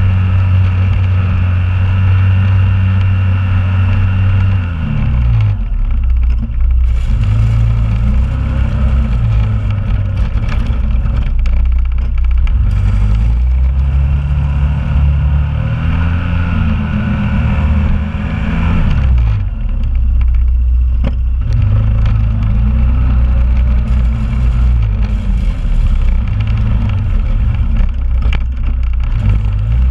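2001 Honda Rubicon ATV's single-cylinder engine working while it plows snow. Its pitch rises and falls several times as the throttle is opened and eased off, with steadier low running between.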